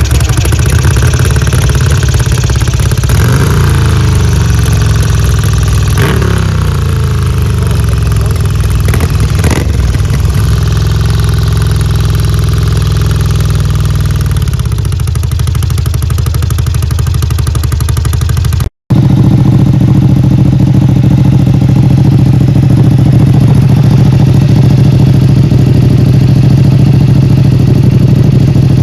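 Ducati Monster 1200 L-twin engine running under way, its pitch climbing and dropping several times as it changes gear and speed in the first half. After a brief cut about two-thirds of the way in, it runs at a steady, loud cruising note.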